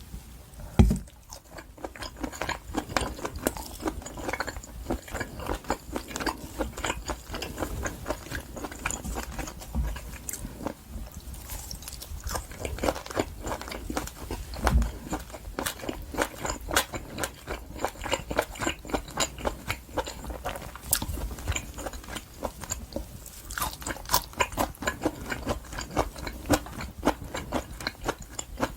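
Close-miked chewing of wagyu top blade steak: a dense run of small mouth clicks and bites, with a single loud thump about a second in.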